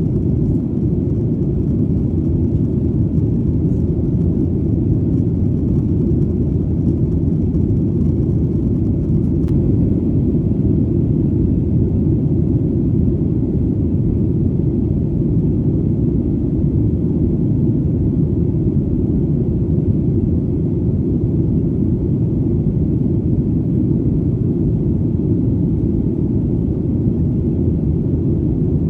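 Steady low rumbling drone of an airplane in flight, unchanging throughout, with nearly all of its energy deep in the low range.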